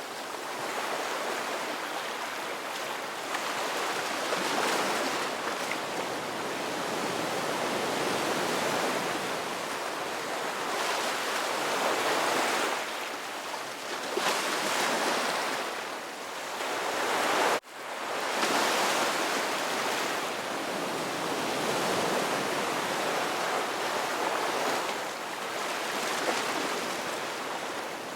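Ocean surf: waves breaking and washing in, a steady rush that swells and fades every few seconds. The sound cuts out for an instant about two-thirds of the way through, then resumes.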